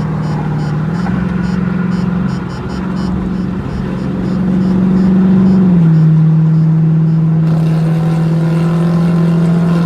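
Car engine running at a steady pitch. It rises a little about a second in, drops back near six seconds, and a broader rushing noise joins it near the end.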